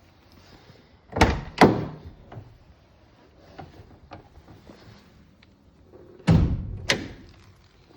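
Four heavy thunks of a car door in two pairs: the first pair about a second in, half a second apart, and the second pair about six seconds in.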